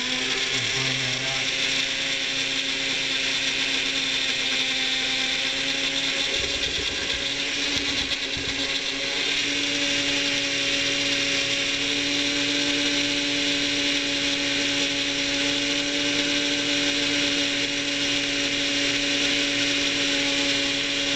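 Bullet-type personal blender motor running at a steady pitch, puréeing a liquid mix of sautéed onions, garlic, white wine and olive oil into a sauce.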